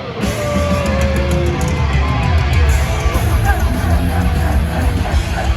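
Live heavy metal band playing loudly, led by distorted electric guitars over a heavy low end. The full band surges in louder right at the start.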